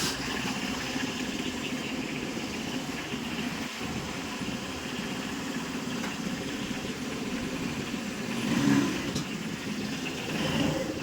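A vehicle engine idling steadily, briefly swelling louder about three-quarters of the way through.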